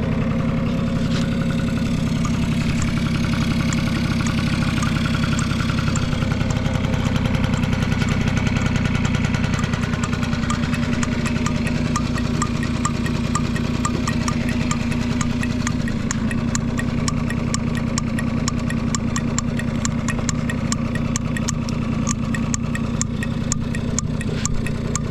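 Honda Squash AB11 scooter's small engine idling steadily. It runs smoothly with no abnormal noise, a quiet engine sound.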